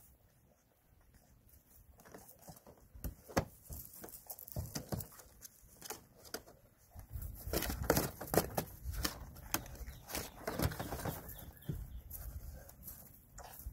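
Puppies scampering and playing, an irregular patter and rustle of small feet and bodies that is sparse at first and thickest from about halfway through.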